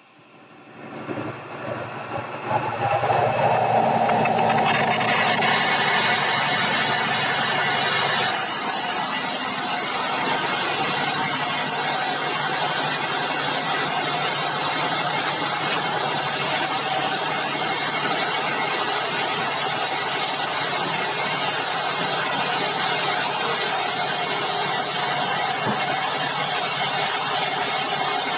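Sawmill machinery starting up about a second in, building over a few seconds and settling into a steady, loud running noise.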